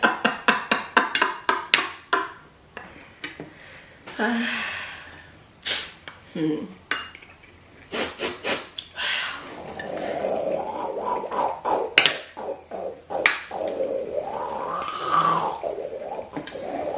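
Wordless voice and mealtime sounds: a quick run of laugh-like pulses at the start, scattered clicks and clinks of dishes, and a long wavering hum or moan later on.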